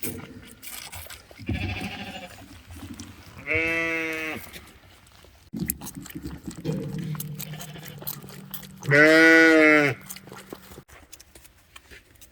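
Bottle-fed lambs bleating: a faint bleat about two seconds in, then two loud bleats, one near the middle and one near the end.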